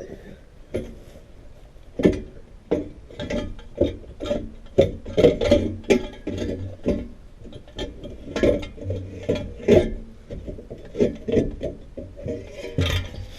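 Jeep exhaust pipe knocking and clanking as it is worked loose and pulled out from under the vehicle by hand: a long run of irregular knocks, thickest in the middle.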